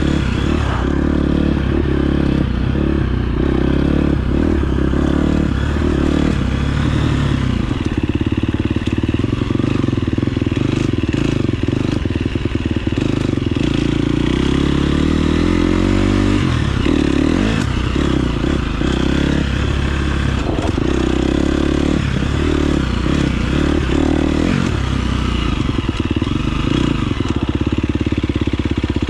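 KTM 350 SX-F four-stroke single-cylinder engine running under throttle, its revs rising and falling. There is one long climb in revs about halfway through.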